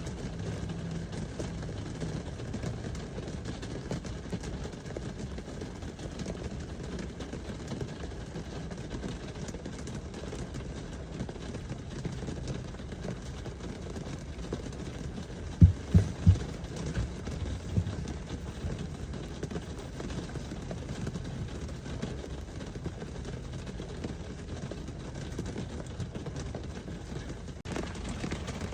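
Steady rain hiss with a low hum underneath, broken about halfway through by a quick run of three low thumps.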